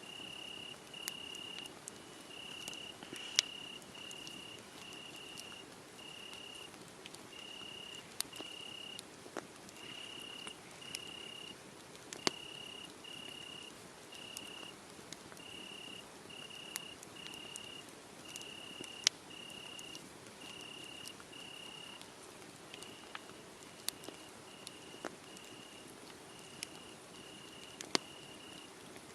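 Crickets chirping steadily, about two short chirps a second, over the soft hiss and scattered sharp pops and crackles of a wood fire burning.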